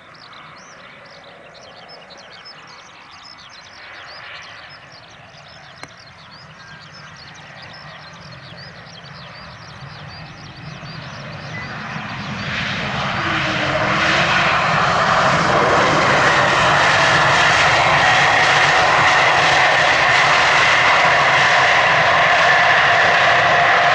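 Jet engines of an Airbus A220-300 airliner, Pratt & Whitney PW1500G geared turbofans, growing steadily louder as the aircraft draws near, then running loud and steady with a high whine over the roar. Rapid high chirps are heard at the start, before the engines build.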